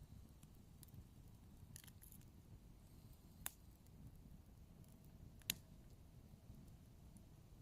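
Wood fire burning quietly, with occasional sharp crackles and pops, the two loudest about three and a half and five and a half seconds in.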